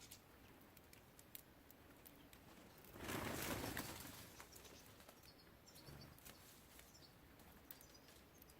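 A small songbird's wings flapping as it flies off or lands at the feeder, a brief whoosh about three seconds in. Faint chirps follow, with scattered light clicks around it.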